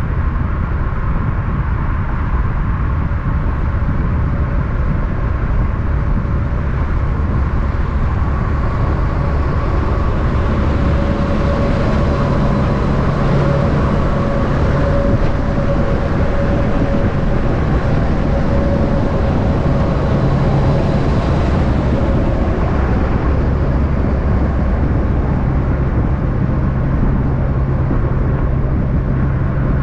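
Steady road-vehicle noise: a low engine drone under a haze of tyre and road noise, with a whine that swells from about a third of the way in and fades again about two-thirds through.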